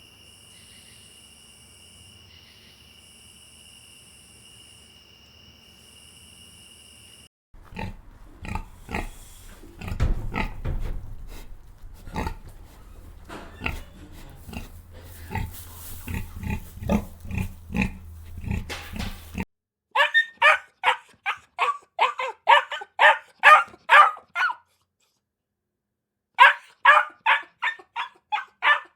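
Animal sounds from separate clips: a steady high-pitched buzz for the first several seconds, then a long stretch of irregular grunting calls over a low hum, then two loud runs of quick repeated calls, about four a second, with a short pause between them.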